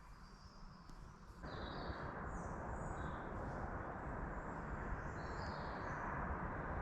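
Small birds chirping and calling, short high notes on and off, over a steady rushing background noise that steps up suddenly about a second and a half in.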